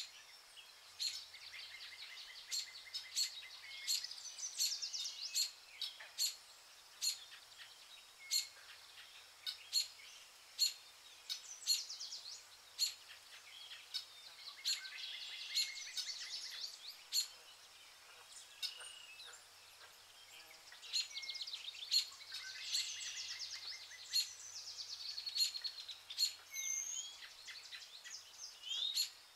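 Birds chirping and trilling over a faint steady hiss, with sharp short notes repeating about once a second and busier bursts of song around the middle and near the end.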